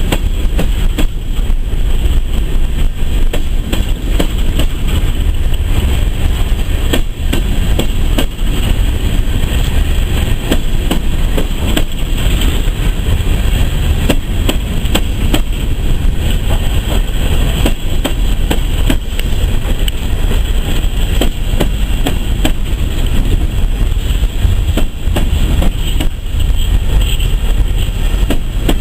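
Empty coal train cars rolling past, a steady low rumble of steel wheels on rail with frequent clicks and bangs from wheels and loose car bodies.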